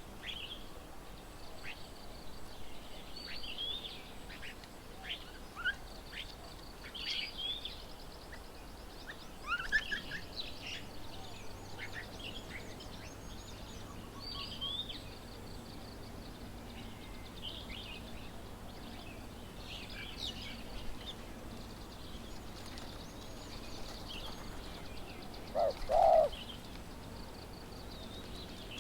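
Several small birds chirping and trilling in short high calls throughout, over steady outdoor background noise, with a louder, lower two-note call near the end.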